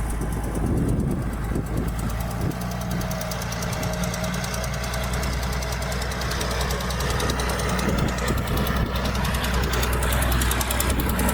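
Heavy diesel engine of earthmoving equipment running steadily under load, a low hum with a fast, even knocking clatter over it.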